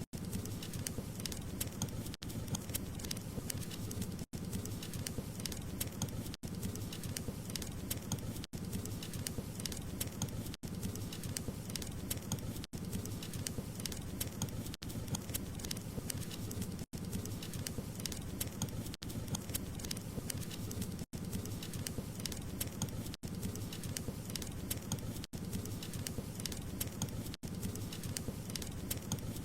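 Wood fire crackling: a steady hiss dotted with many small sharp pops and snaps, broken by very short dropouts about every two seconds.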